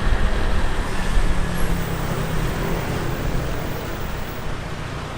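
Motorbike ride through city traffic: steady engine and road noise with a heavy low rumble, slowly getting quieter.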